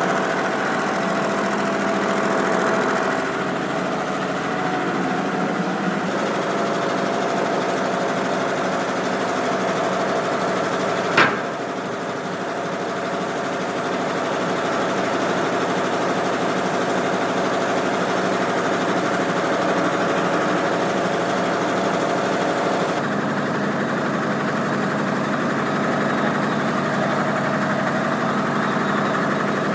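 Six-cylinder Chevy spark-ignition engine, stripped of its auxiliary equipment, running steadily at half throttle while warming up. A single sharp click is heard about eleven seconds in.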